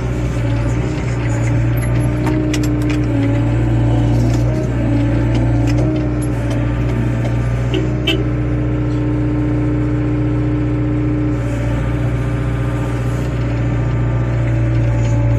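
Small wheeled excavator's diesel engine running steadily while digging, with a whine that shifts in pitch as the machine works and a few sharp metallic clanks about two to three seconds in and again around eight seconds.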